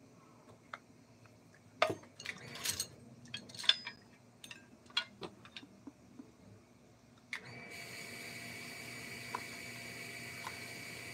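Scattered clicks and knocks of tools being handled. Then, about seven seconds in, a small electric power tool switches on and runs steadily with a high whine.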